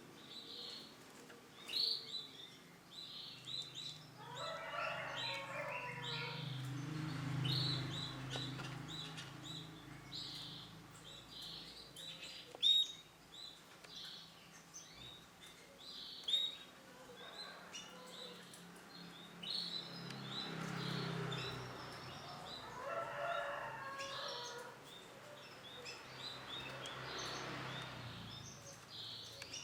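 Male canary chirping: short, high notes repeated in uneven runs, with a few sharper, louder notes. A low hum rises and fades twice behind it.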